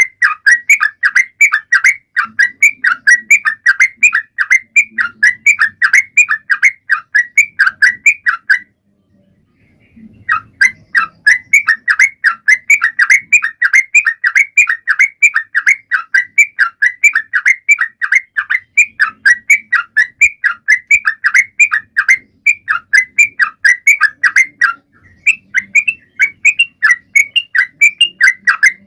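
Trucukan (yellow-vented bulbul) singing in full voice: a fast, unbroken run of short bubbling notes, about three or four a second. The song stops for a second or two about a third of the way in and pauses briefly again near the end.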